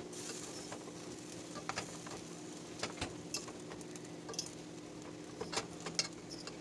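Lo mein noodles being stirred and tossed in a pan with a spoon and fork, with a light sizzle and scattered clicks and scrapes of the utensils against the pan.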